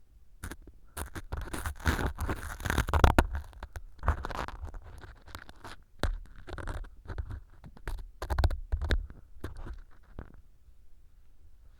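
Ear pick scraping and crumbling small pieces of dry floral foam inside a silicone ear model, right at a binaural microphone: crisp scratching and crunching strokes in clusters, thinning out near the end.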